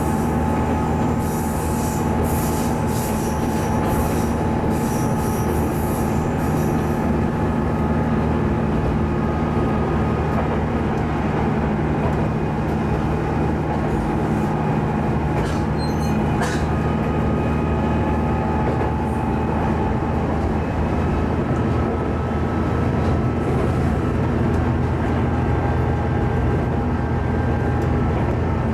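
Diesel railcar running along the line: a steady engine drone with wheel and rail noise, and high wheel squeals that come and go over the first several seconds and briefly again near the middle.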